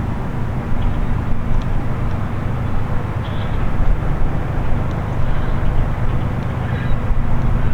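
Diesel freight locomotives running past with a loud, steady low engine rumble, with a few faint high squeaks over it.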